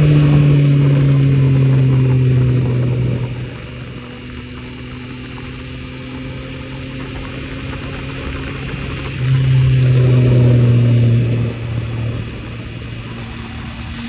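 Yamaha MT-09 three-cylinder motorcycle engine under way: two stretches on the throttle with a loud, steady note that sags slightly, the first at the start and the second about nine seconds in, with the engine running quieter off the throttle between and after.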